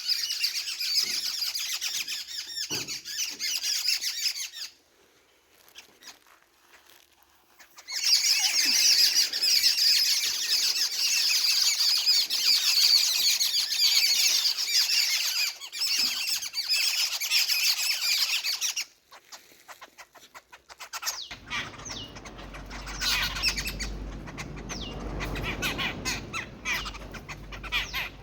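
A flock of birds chirping and chattering densely while feeding. The chatter stops for about three seconds around five seconds in, then resumes. In the last quarter it thins and a low rumble comes in underneath.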